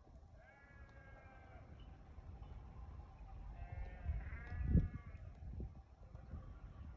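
Bleating livestock: two drawn-out bleats, one about half a second in and a longer one around four seconds in, over a low rumble with a thump near the second bleat.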